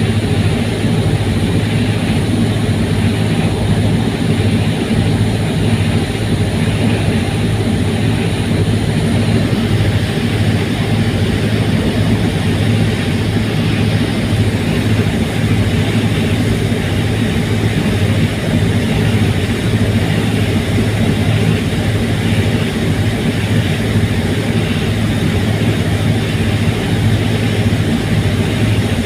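Fast ferry's engines running steadily underway: a loud, unbroken deep drone with a hum around 100 Hz.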